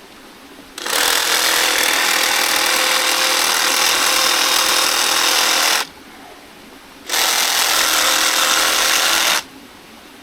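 Reciprocating saw fitted with a 12-inch pruning blade running in two runs, about five seconds and then about two seconds, cutting through a banana stalk.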